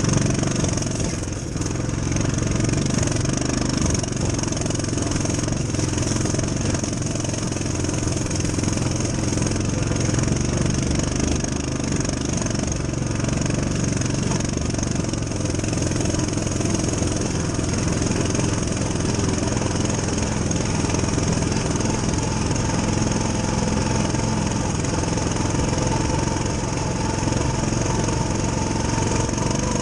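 Coleman CT200U-EXR mini bike's single-cylinder four-stroke engine running steadily.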